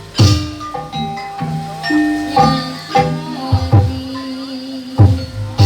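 Kuda lumping gamelan music: struck metallophones ring out pitched notes over sharp drum strokes, about one or two strikes a second.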